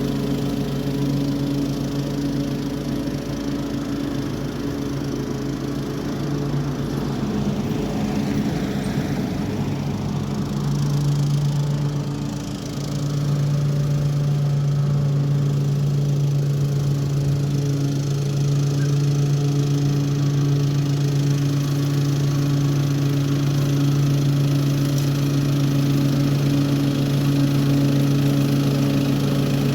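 Toro HDX 30-inch self-propelled mower running steadily while mowing with its mulching kit, with a brief dip in level about twelve seconds in.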